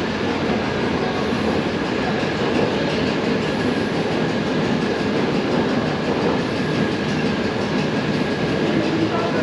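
Train running steadily: an even rail rumble with a faint steady whine over it.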